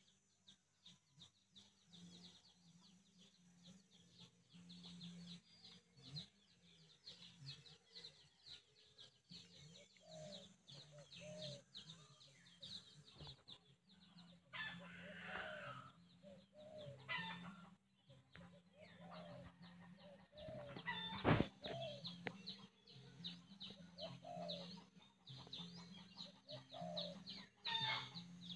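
Birds calling in the background, faint: many quick high chirps with some lower short calls mixed in. One sharp click about two-thirds of the way through.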